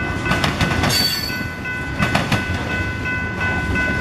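Freight train tank cars rolling past, steel wheels clacking in quick groups over rail joints over a steady rumble, with a high-pitched steady tone running underneath.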